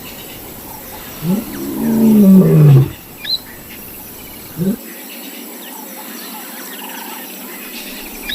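Lion roaring: one long call a little over a second in, rising then falling in pitch, then a short grunt just before five seconds. After that only faint bird chirps remain.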